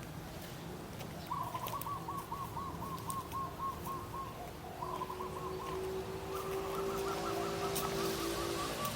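A bird calling in quick runs of repeated, identical notes, three runs in all, the last one longest. A steady low hum comes in about halfway through.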